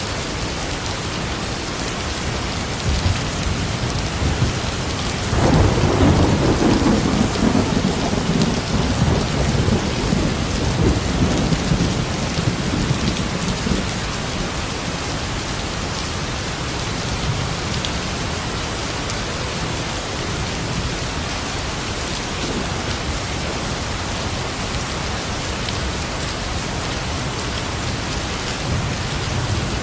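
Steady rain, with a long rumble of thunder starting about five seconds in and fading away over the next eight seconds or so.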